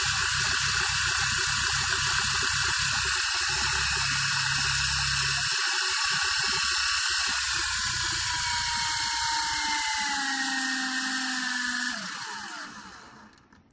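Small electric motors and counter-rotating coaxial rotor blades of a 3-channel RC helicopter whirring steadily at speed. About two-thirds of the way through, the whine falls in pitch as rotor speed changes. Near the end the motors are cut and the rotors spin down to a stop.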